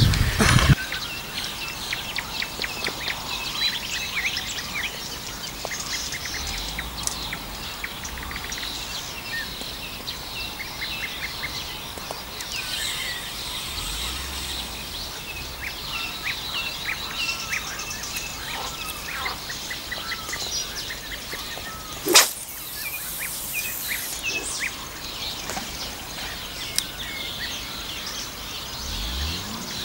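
Songbirds chirping and singing throughout, many short calls and trills overlapping. About two-thirds of the way through there is a single loud, short swish.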